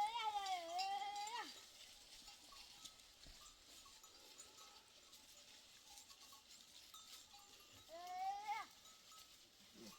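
Herd animal bleating twice: a long, wavering call at the start and a shorter one about eight seconds in.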